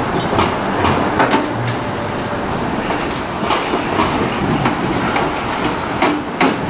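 A loud steady rumble of a passing train with a clickety-clack, over scattered sharp metal knocks. The two loudest knocks come near the end, from a tool working on the metal base of a street payphone.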